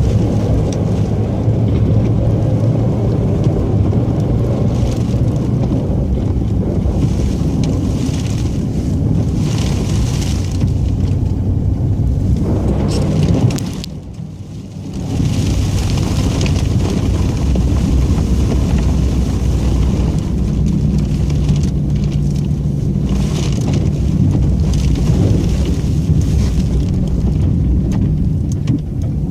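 Snowplow truck's engine running steadily under load, a low drone that drops away briefly about halfway through. Rushing, scraping noise swells and fades every few seconds over it.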